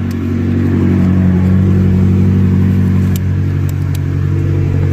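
McLaren supercar engine running at a steady idle, slightly louder for a couple of seconds, with a few light clicks about three seconds in.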